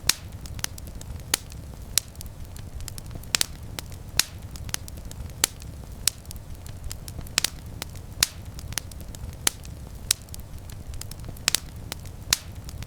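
Small wood campfire crackling, with irregular sharp pops and snaps over a steady low rumble.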